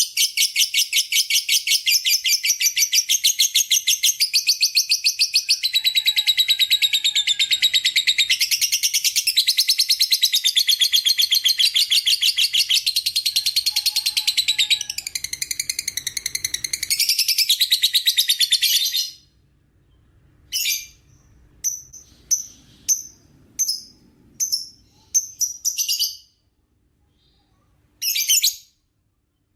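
Lovebird 'ngekek': a long, very rapid high-pitched chattering song that runs unbroken for about nineteen seconds, then stops and gives way to a string of short separate chirps.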